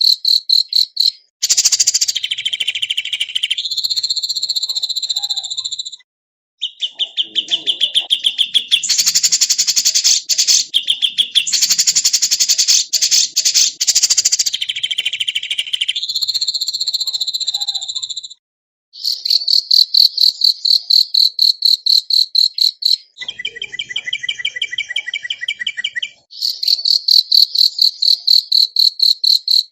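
Recorded songbird song used as a tutor track: long runs of rapid, buzzy, insect-like trills, high-pitched and in repeated phrases broken by brief silences. A phrase of clearer whistled notes comes about three quarters of the way through.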